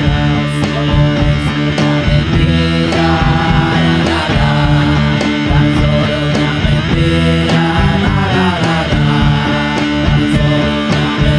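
Rock band recording: electric guitars over sustained bass guitar notes and a steady drum beat, with some notes sliding in pitch a little past the middle.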